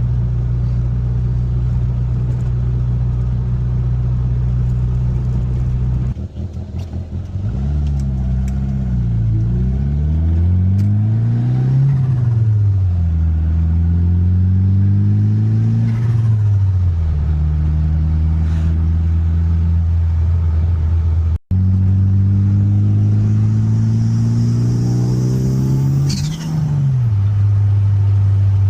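1995 Mitsubishi Eclipse GSX's turbocharged 4G63 four-cylinder engine holding a steady note while driving. From about six seconds in it pulls up through the gears in moderate rises in pitch, each cut off by a drop at the shift. After a brief dropout it makes one longer climb with a high hiss rising alongside, then drops sharply at a shift near the end.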